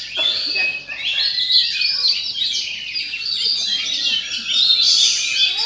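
Caged oriental magpie-robins (kacer) singing at a practice contest, a dense, unbroken stream of fast chirps, whistles and trills from several birds at once.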